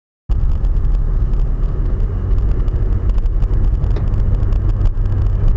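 Steady low rumble of a car on the move, engine and road noise as picked up by a dashcam, cutting in abruptly about a quarter second in after silence.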